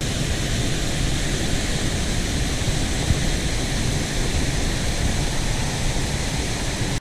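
Loud, steady rushing noise with a heavy low rumble, cutting in and out abruptly.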